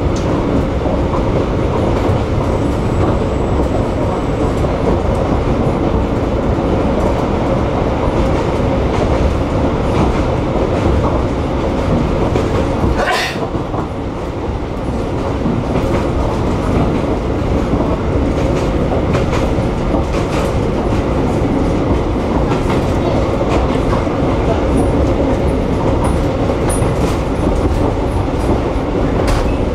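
Narrow-gauge heritage train running along the track: a steady, loud rumble and rattle of wheels on rails, with a short break in the rumble about halfway through.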